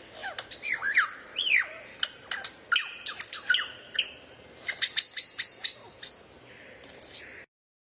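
Songbird singing a fast, varied run of chirps and whistles that slide down in pitch, with a quick string of high notes later on; the sound cuts off abruptly about seven and a half seconds in.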